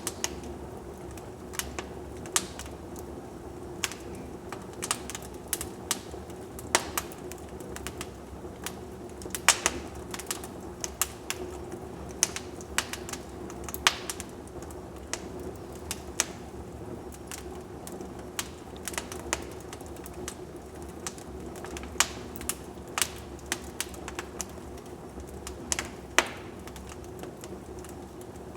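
Wood fire crackling in a fireplace: irregular sharp pops and snaps, sometimes several in quick succession, over a steady low background.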